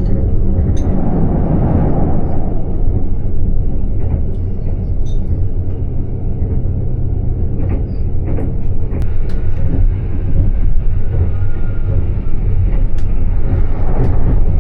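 Argo Bromo Anggrek passenger train running at speed, heard from inside the carriage as a steady low rumble that swells briefly in the first couple of seconds. A few light clicks sound over it.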